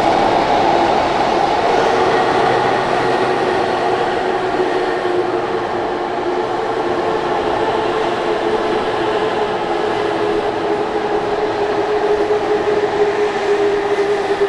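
Odakyu electric train running past at speed in an underground station: a steady rolling rumble of wheels on rail with a steady motor whine over it.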